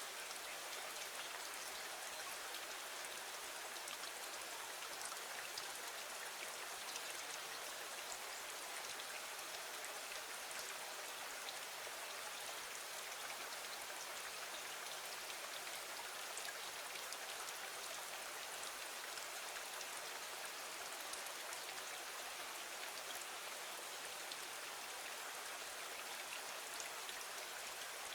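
Steady rain: an even hiss of falling rain with scattered individual drop ticks, unchanging throughout.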